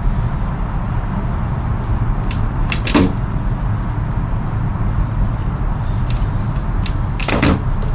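Pocket knife cutting through the tag end of #36 bankline: two short strokes, about three seconds and seven and a half seconds in, with a few fainter clicks, over a steady low rumble.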